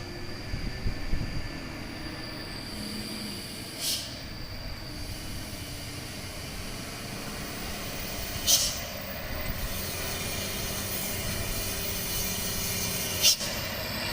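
Overloaded dump truck crawling down a steep descent on its brakes: a low engine rumble with a thin, steady high brake squeal over the first few seconds. Short, sharp air hisses from the brakes come three times, roughly every four to five seconds.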